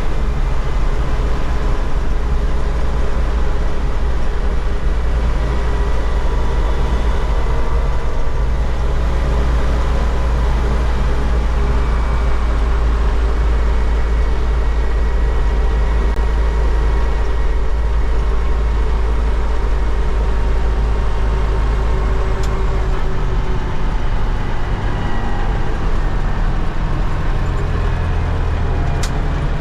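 MTZ-80 tractor's 4.7-litre D-243 diesel running steadily under way, a loud continuous drone whose pitch shifts a little about 25 seconds in.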